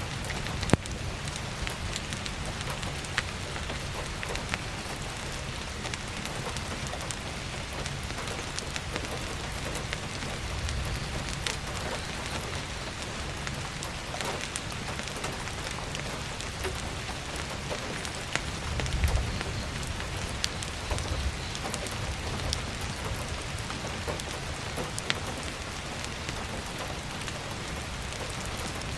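Heavy rain falling steadily, with scattered sharp pops of crackling firewood. A low rumble swells about two-thirds of the way in.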